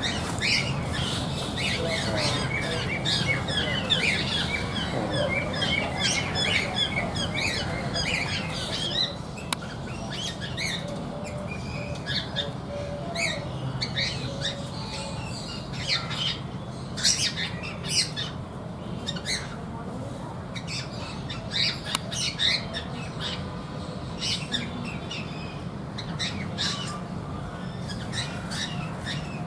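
Cockatiels calling: dense overlapping chirping for about the first nine seconds, then sharper separate squawks repeating every second or so, over a steady low hum.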